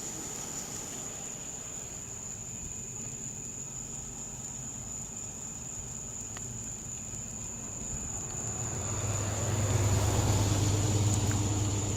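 A motor vehicle's engine hum with road noise, growing louder about eight seconds in and staying strong near the end. A steady high-pitched electronic whine runs underneath.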